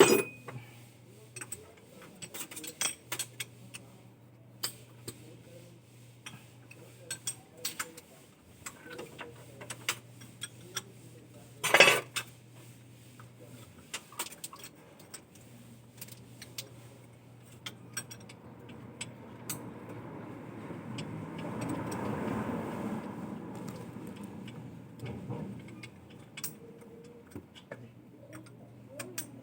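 Metal tools and parts clinking and clattering as they are handled, with many light clicks and one loud knock about twelve seconds in. In the second half a rushing noise swells up and fades away over several seconds.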